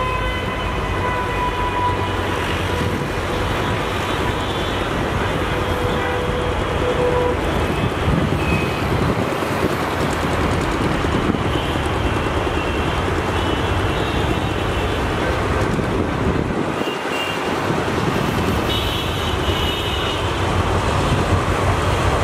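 Diesel locomotive hauling a passenger train as it approaches, a steady engine and wheel rumble that grows a little louder near the end. Faint high whines come and go over it.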